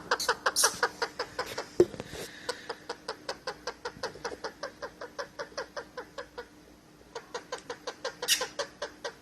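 Ringneck parrot giving a rapid, even run of short repeated calls, about five a second, with a brief pause past the middle and a couple of shrill high squawks. A single sharp knock about two seconds in.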